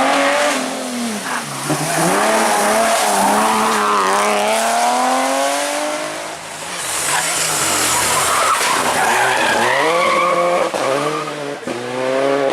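Rally car engine revving hard, its pitch climbing and dropping with each gear change, over a hiss of tyres skidding on the stage surface.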